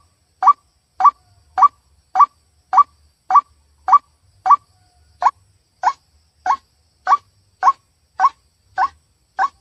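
White-breasted waterhen (ruak-ruak) calling: a short, upward-sweeping note repeated steadily, a little under two a second, about seventeen times.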